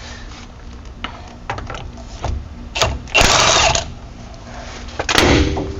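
Impact wrench hammering in two short bursts, the first about three seconds in and the second near the end, as it spins off the tie rod end nut.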